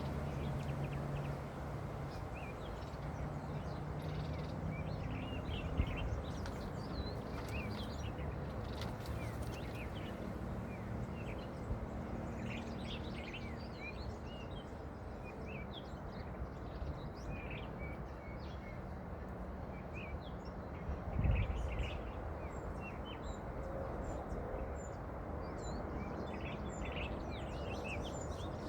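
Small birds chirping and twittering on and off over a steady background hum of outdoor noise, with a single dull thump about three-quarters of the way through.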